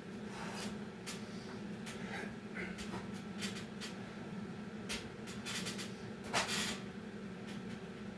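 A man breathing hard through workout reps, with scattered light knocks and rustles of movement over a steady low hum. The loudest breath comes about six and a half seconds in.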